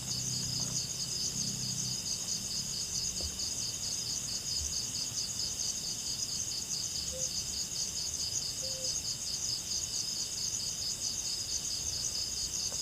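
Steady chorus of night insects, cricket-like trilling in two high-pitched bands with a fast pulse. Two faint short low calls are heard a little past the middle.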